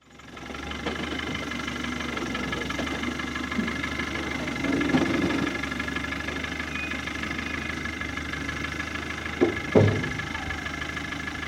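Land Rover Defender engine idling steadily, with a louder stretch about halfway through and two sharp knocks near the end.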